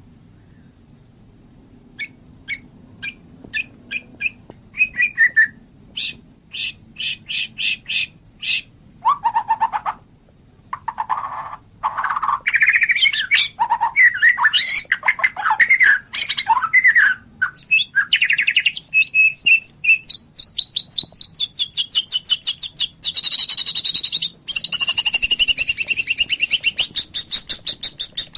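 White-rumped shama singing: a quiet first couple of seconds, then a series of short sharp chips, building into varied whistled phrases that slide up and down, and in the last third fast rattling trills.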